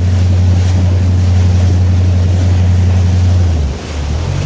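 Motorboat engine running steadily under way, with wind buffeting the microphone and water noise. About three and a half seconds in the engine note drops suddenly, then picks up slightly near the end.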